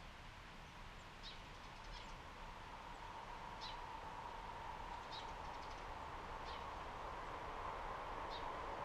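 A train approaching in the distance: a steady hum that slowly grows louder. Short, high bird chirps sound every second or two.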